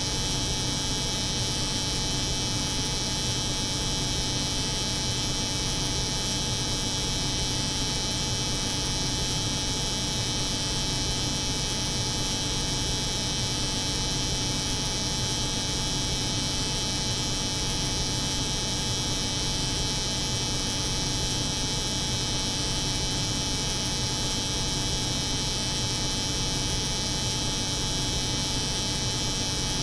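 Steady, unchanging layered drone of a cold room's refrigeration hum mixed with an electric hair clipper's buzz.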